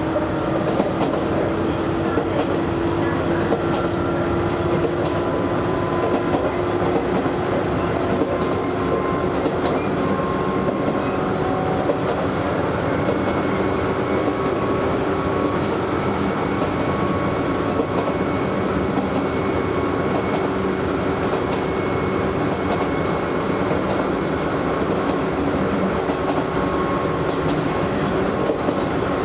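Izu Hakone Railway Series 3000 resistance-controlled electric train heard from inside the car while running: a steady rumble of wheels on rail with a motor hum that rises slowly in pitch through the first half, then holds.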